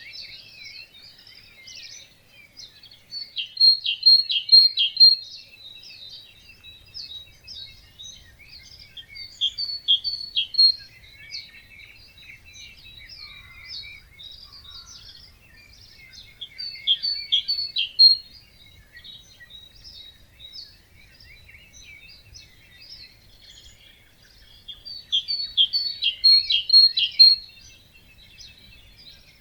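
Songbirds singing at dawn in a wetland, a steady background of chirps and trills. One nearer bird sings a louder, short, quick song phrase four times, about every seven to eight seconds.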